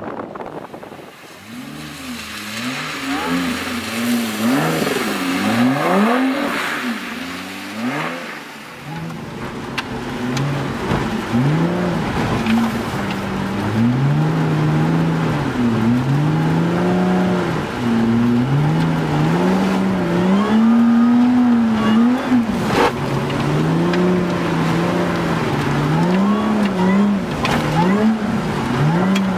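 Lotus Exige S's supercharged V6 revving up and down again and again through a drift, its pitch climbing and dropping every second or two. It is heard first from beside the track, then from inside the cabin, where it is louder and fuller.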